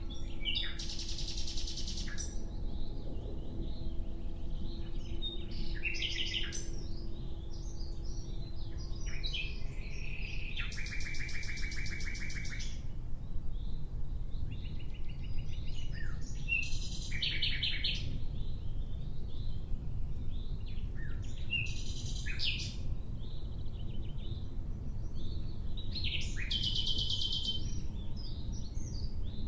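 Nightingale singing: about half a dozen separate phrases a few seconds apart, several of them fast rattling trills of rapidly repeated notes, over a steady low rumble.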